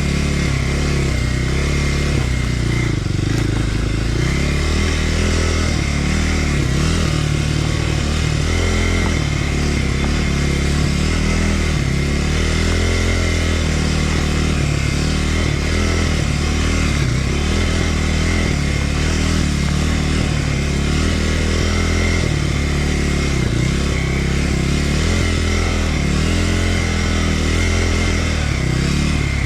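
Kawasaki KLX300R dirt bike's single-cylinder four-stroke engine running at low, shifting revs, its pitch rising and falling as the bike is ridden.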